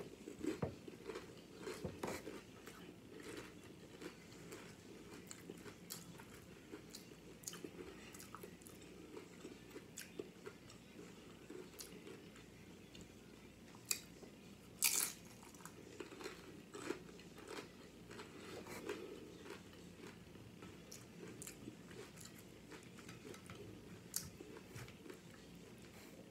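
A person chewing and biting crunchy Doritos loaded nachos, with repeated crisp crunches throughout; the two loudest crunches come about fourteen and fifteen seconds in.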